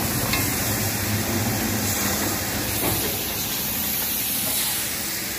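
Steady hiss of chicken pieces frying in hot oil in a kadhai.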